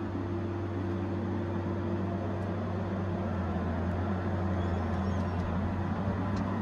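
Diesel engine of a Tigercat 870C feller buncher running steadily at an even, low hum.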